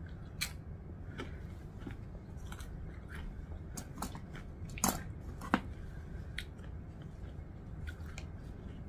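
Close-up chewing of a crunchy chip, with scattered small crunches and two sharper clicks about five seconds in.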